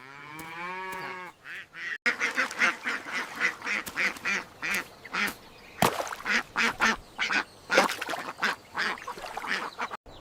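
Ducks quacking, a rapid run of short repeated calls.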